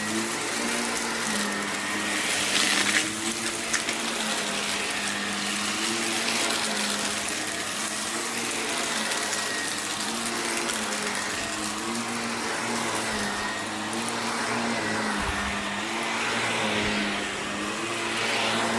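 Vacuum cleaner running steadily on a rug: a motor hum whose pitch wavers slightly every second or two, under a constant rush of suction.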